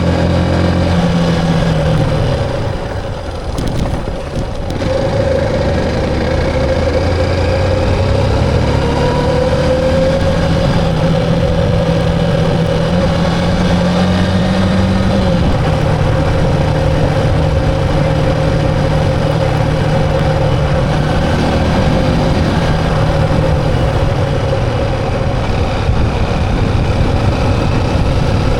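Motorcycle engine running while riding on the road, its pitch stepping down about halfway through.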